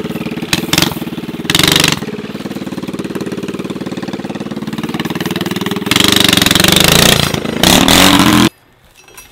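A motorbike engine running at a steady idle, revved up briefly about a second and a half in and again for a couple of seconds near the end, then stopping suddenly.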